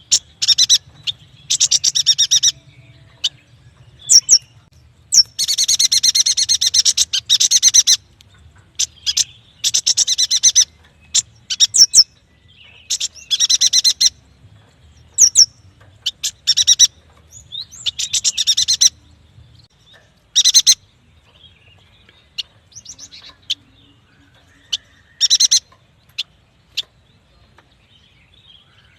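Yuhina singing: repeated bursts of rapid, buzzy chattering trills, each half a second to two seconds long, with single sharp notes in between. The calls thin out for a few seconds after the middle and pick up again near the end.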